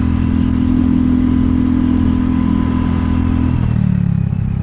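Kymco People 250 scooter's single-cylinder engine running at steady revs, then dropping to lower revs about three and a half seconds in. Its exhaust leaks are sealed with high-heat epoxy.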